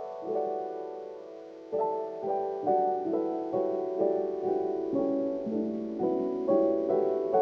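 Slow, gentle piano music: notes and chords struck about one to two a second, each ringing out and fading.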